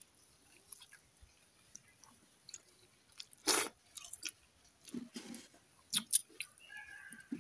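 Close-up eating sounds: chewing with scattered mouth clicks and smacks, and a sharper crunch or smack about three and a half seconds in.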